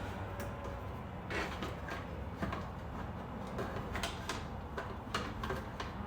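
Irregular clicks, knocks and scrapes of plastic car interior trim pieces being handled and fitted back in place, over a low steady rumble.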